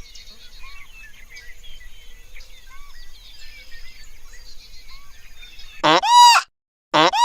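Small birds chirping in a busy outdoor chorus. Near the end, a loud, high-pitched animal call sounds twice, each about half a second long and rising then falling.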